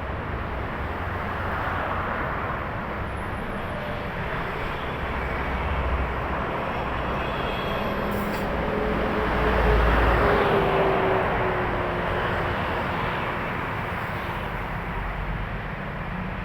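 Trucks and other traffic passing steadily on a busy highway. About ten seconds in, one heavy vehicle passes loudest and its whine drops in pitch as it goes by.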